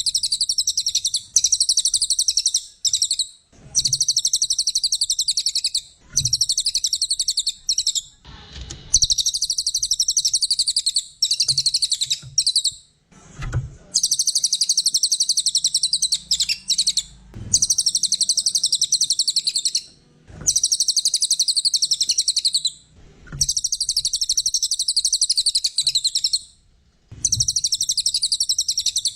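A cililin songbird singing a rapid, high-pitched chattering song. It comes in repeated phrases of about two to four seconds, with short pauses between them.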